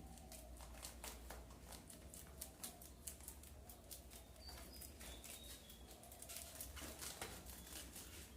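Rabbits chewing fresh grass: faint, quick, irregular crunching clicks.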